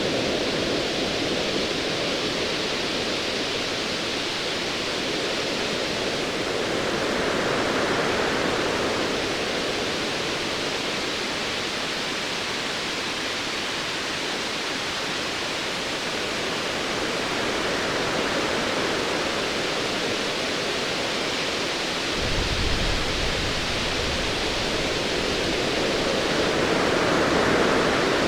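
Ocean waves washing in slow swells that rise and fall every several seconds. About three-quarters of the way through, a low distant thunder rumble sets in under the surf and carries on.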